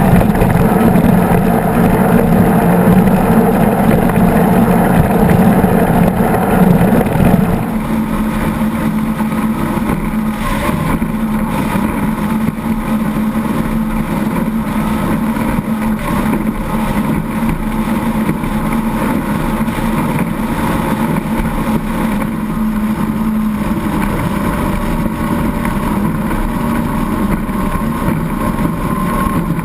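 A 36 Skater catamaran powerboat's engines running under way, with wind and water hiss. A quarter of the way in, the engine sound drops to a somewhat quieter, steady note that holds to the end.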